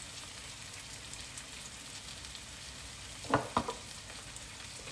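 Onion, tomato and green pepper slices frying in oil in a pan: a steady sizzle with fine crackling. About three seconds in, two short knocks a third of a second apart stand out above it.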